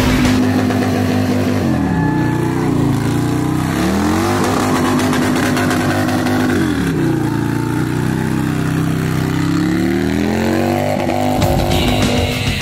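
V-twin bagger motorcycle revved hard during a smoky rear-tyre burnout. The engine holds high revs, drops about two seconds in, climbs back, drops again about seven seconds in, then rises slowly and holds near the end.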